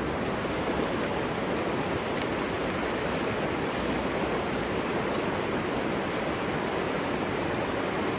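River water rushing steadily, an even wash of noise that never rises or falls.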